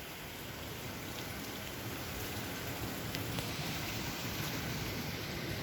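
Heavy rainstorm with strong wind: a steady rush of rain beating on the floating house.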